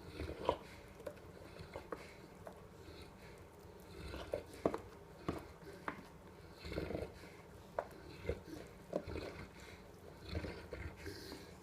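A dog eating: a run of short, uneven chewing and smacking mouth sounds.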